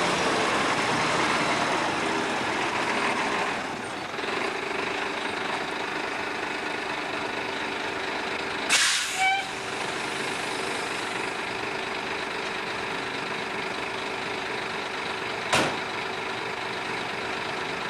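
Diesel semi truck engine idling steadily, a little louder for the first few seconds. Sharp hisses of compressed air come from the air brakes twice close together about nine seconds in, and once more near the end.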